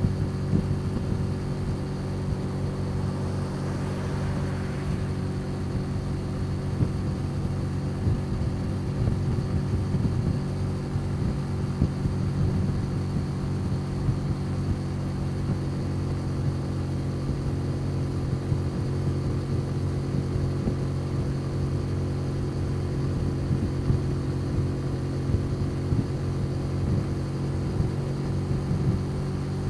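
Motor scooter engine running at a steady, unchanging speed during a ride, with a brief swell of passing noise about four seconds in.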